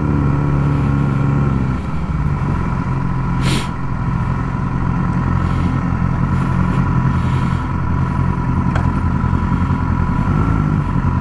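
Motorcycle engine running steadily at low speed in city traffic, heard from the bike, with a short hiss about three and a half seconds in.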